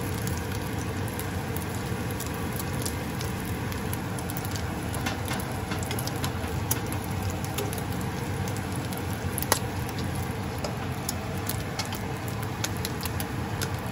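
Omelette frying in olive oil in a nonstick pan: a steady sizzle with scattered small crackles and pops, and one sharper pop about nine and a half seconds in.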